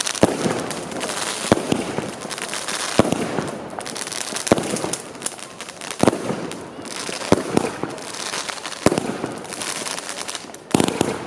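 Fireworks going off, with a sharp bang about every second and a half and a dense crackling in between.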